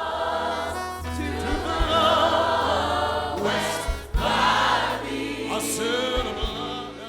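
Choir singing gospel music over instrumental accompaniment with steady low notes and a few low thuds, fading out near the end.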